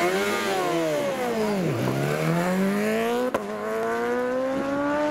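Superbike racing motorcycle engine coming off the throttle, its pitch falling for under two seconds, then accelerating hard in one long rising pull. A short break about three seconds in, like an upshift, comes before the pitch climbs again.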